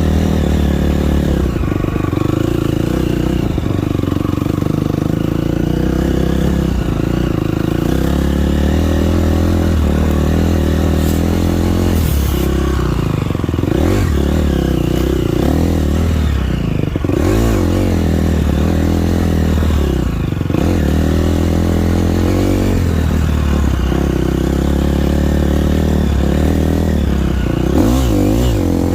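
Motocross dirt bike engine being ridden on a track, revving up and dropping back again and again as the throttle is opened and closed, with brief throttle-off dips partway through and near the end.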